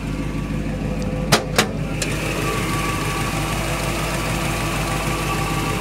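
A 1957 Chevrolet Bel Air's V8 idling steadily. Two sharp clicks come about a second and a half in, and a steady whine joins shortly after.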